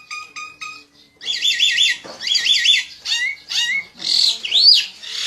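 A small bird calling in fast runs of sharp, high chirps, with one call sweeping up in pitch near the end.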